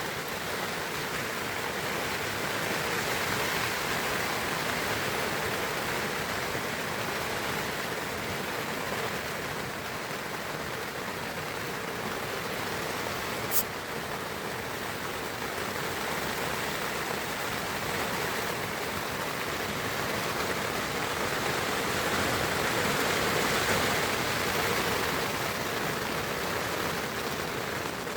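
Steady rain falling on a Dutch army tent, an even hiss throughout, with one sharp click about halfway through.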